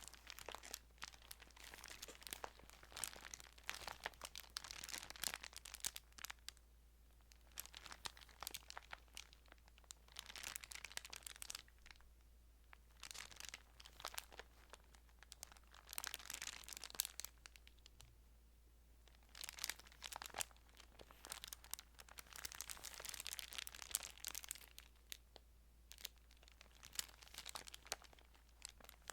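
Thin Bible paper pages rustling and crinkling as they are handled and turned, soft and crackly, in bursts of a few seconds with short pauses between.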